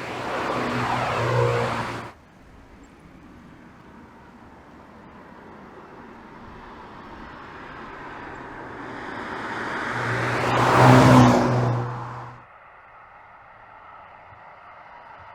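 MINI John Cooper Works Clubman's turbocharged four-cylinder engine and exhaust as the car goes by twice. The first pass cuts off suddenly about two seconds in. The engine note then builds slowly to a louder peak about three-quarters of the way through and cuts off suddenly again.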